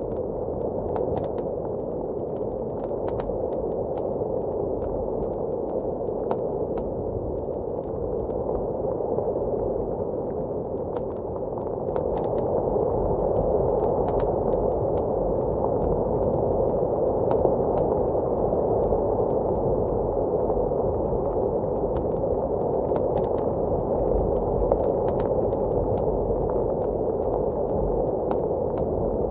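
Blizzard wind heard dull and muffled from indoors, a steady rushing that swells a little about twelve seconds in, with the scattered sharp crackles and pops of a wood fire in a fireplace.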